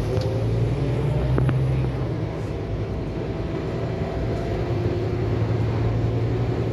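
Scania K280UB4 city bus under way, heard from on board: the engine and driveline run steadily with a low hum. A faint whine climbs slowly in pitch, and there is a short click about a second and a half in.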